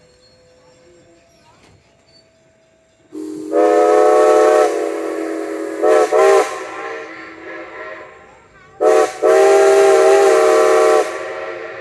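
Strasburg Rail Road No. 90 steam locomotive whistle blowing. About three seconds in comes a long blast, then two short toots. About six seconds later a second run follows: a short toot, then a long blast. Steam hisses as each run fades.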